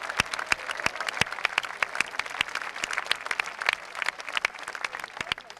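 Outdoor audience applauding, many hands clapping, dying away near the end.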